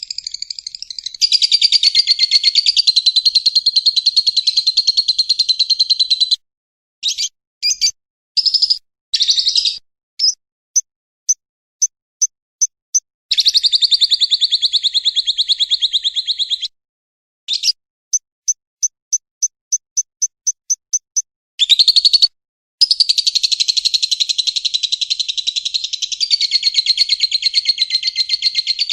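Lovebird's long, rapid chattering trill (the 'ngekek'), high-pitched, broken in the middle by short bursts and two runs of quick, evenly spaced clicking notes at several a second, each part starting and stopping abruptly as in an edited recording.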